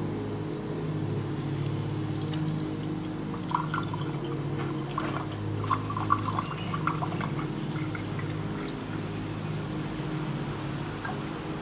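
Water pouring and dripping with a Yixing clay teapot, in scattered splashes and drips that cluster between about two and seven seconds in, over a steady low drone.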